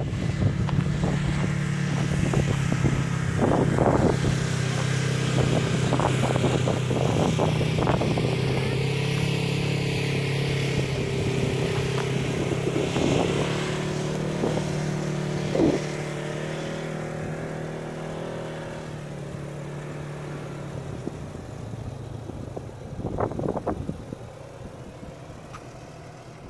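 Lifted Toyota Tacoma's engine running at low, steady revs as the truck crawls off-road, with scattered knocks and clunks over the first half and another cluster near the end. The engine sound slowly fades over the second half.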